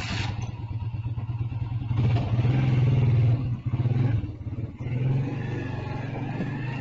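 Motorcycle engine cutting in suddenly and running, revving up about two seconds in, easing off briefly, then running steadily.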